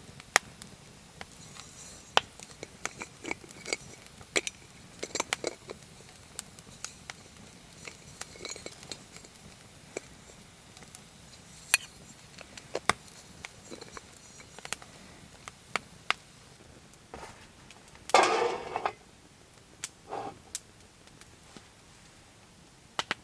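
Metal cookware and utensils clinking and tapping as they are handled, in many separate light knocks. A brief, louder noise stands out about eighteen seconds in.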